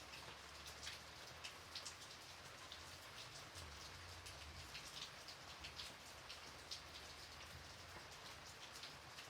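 Light rain falling steadily: a soft hiss with many separate drops ticking on a surface.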